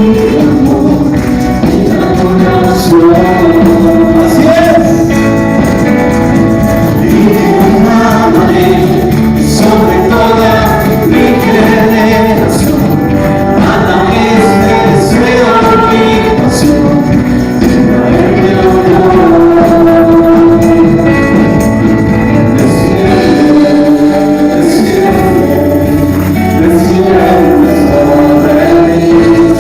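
Live Spanish-language Christian worship music: a band with voices singing a slow worship song, with percussion strikes through it.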